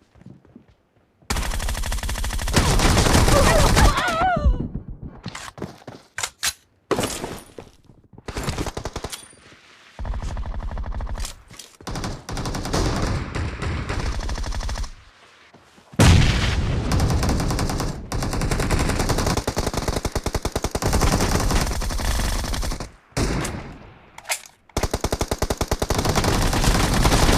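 Video-game automatic gunfire: long bursts of rapid shots with short breaks between them.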